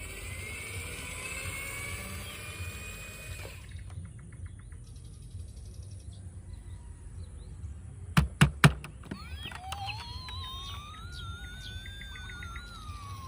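Chirping, gliding electronic tones, then three sharp clicks about eight seconds in, followed by a siren-like wail that slowly rises and then falls.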